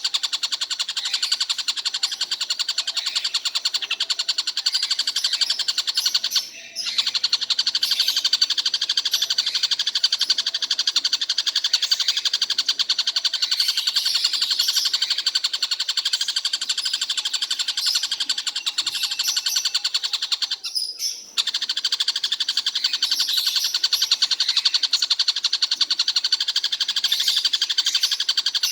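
Stork-billed kingfisher calling without let-up, a rapid run of high notes that stops briefly twice.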